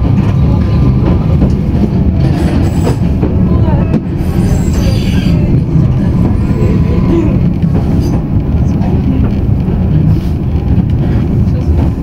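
Tokyu Setagaya Line light-rail car running on its track, heard from inside the car as a steady low rumble of wheels and running gear. There is a brief high wheel squeal about four seconds in.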